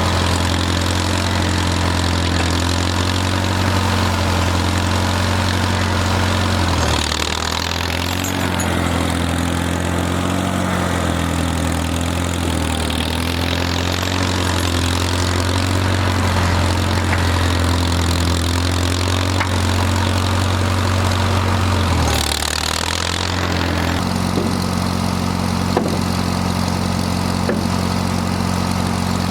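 Farmall tractor engine running steadily, dipping in pitch briefly twice, about seven seconds in and again about twenty-two seconds in.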